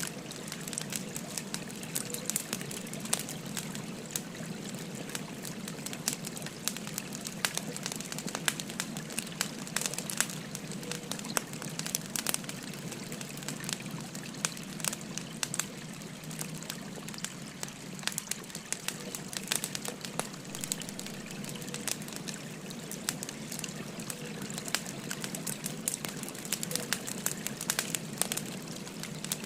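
Wood fire crackling with frequent sharp pops and snaps, over a steady babbling stream.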